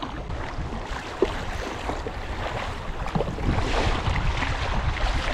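River water rushing and splashing around a kayak, with wind rumbling on the microphone.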